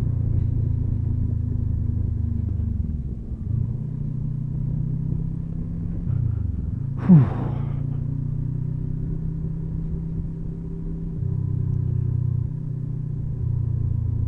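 Motorcycle engine running steadily on the road, its note dipping and rising again a few times. About seven seconds in there is one short, louder sound that falls quickly in pitch.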